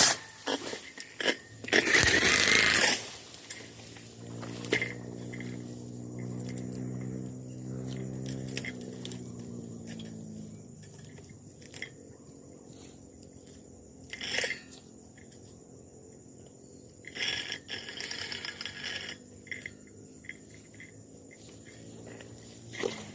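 Brush cutter engine: a loud burst of cutting noise for the first few seconds, then the engine running low and steady, its pitch falling as it dies away about ten seconds in. After that come scattered scrapes and knocks.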